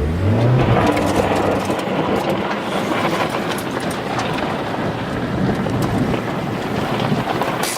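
A vehicle driving over loose dirt, its engine briefly rising in pitch at the start, under a steady rough crunch of tyres on the ground and wind noise.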